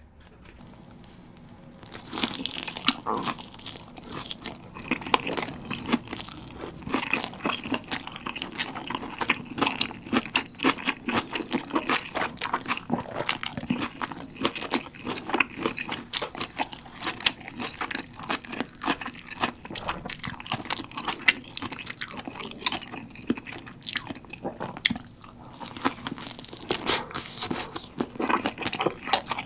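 Close-up eating of a pizza slice: biting and chewing with dense, crisp crunching, starting about two seconds in after a quieter moment as the slice is pulled free.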